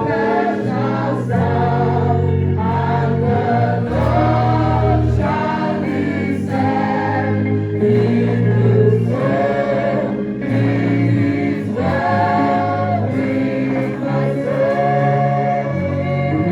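Gospel music: a choir singing over a steady bass line.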